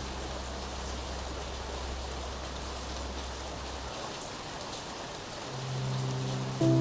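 Steady rain falling, an even hiss. Underneath, a low held music tone stops about four seconds in, and another low note comes in near the end.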